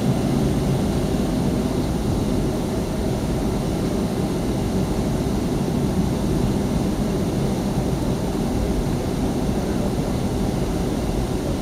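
Steady roar of a Boeing 757-200's jet engines at high thrust with rushing airflow, heard inside the passenger cabin.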